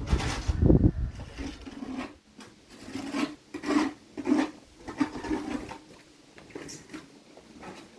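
A run of rough rasping strokes on a surface, several about half a second apart, after a heavy low rumble in the first second.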